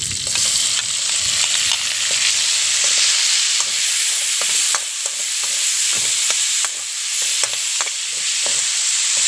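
Tomato wedges frying with garlic and onion in hot oil in a metal wok, sizzling steadily while a metal spoon stirs them, with repeated scrapes and clicks of the spoon against the pan from about three seconds in.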